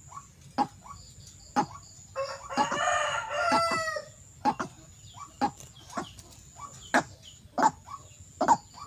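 A rooster crows once, starting about two seconds in and lasting nearly two seconds. It is the loudest sound, set over a steady series of short, sharp calls repeating roughly once a second.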